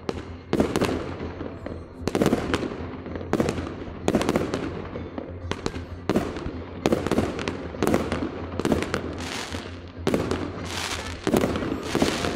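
Fireworks display: aerial shells bursting in quick succession, roughly one or two bangs a second, each trailing off briefly. Music plays underneath.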